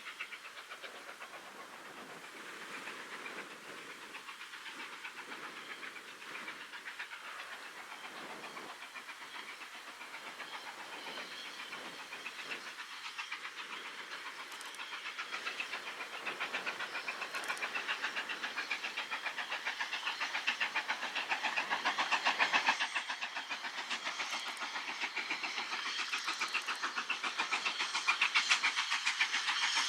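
Steam locomotive working a train, its exhaust beats and hiss in a fast, even rhythm, growing steadily louder as it approaches.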